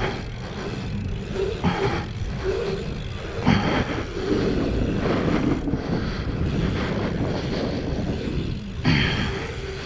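Wind rushing over a helmet-mounted action camera while riding a BMX bike, with tyre noise on the track and short rough bursts about 1.5, 3.5 and 9 seconds in.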